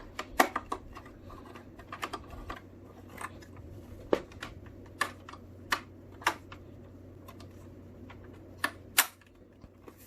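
Irregular light clicks and taps of hard plastic being handled: parts of a small tower air cooler being picked up, turned over and set down. A faint low hum runs underneath and stops about nine seconds in.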